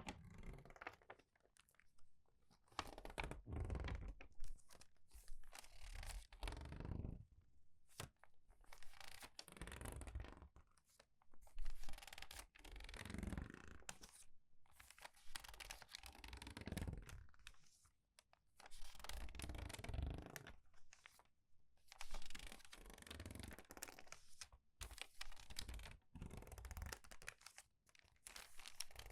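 Crumpled, crinkled paper pages being turned and squeezed in quick succession. The paper crackles and rustles in repeated bursts every two to three seconds, with short pauses between the turns.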